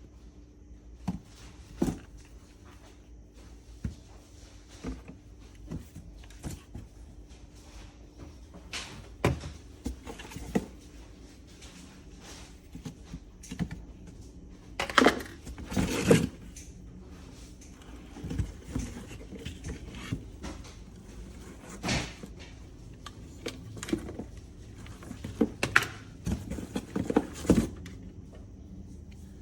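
Handling noises: irregular light clicks and knocks of hard objects being moved and set down, with a cluster of louder knocks about halfway through.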